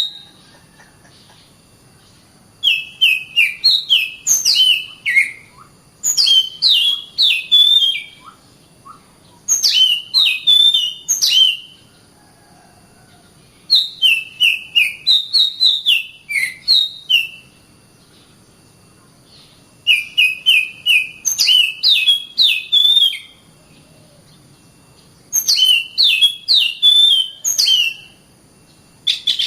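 Oriental magpie-robin singing: loud phrases of quick, repeated chirping notes, each lasting two to four seconds, with short pauses between them, about seven phrases in all.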